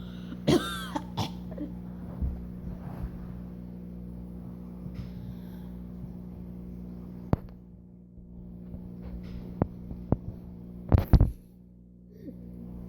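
Steady electrical hum, with puppies mouthing and snuffling close by: a few sharp clicks, and a brief loud snuffle about eleven seconds in.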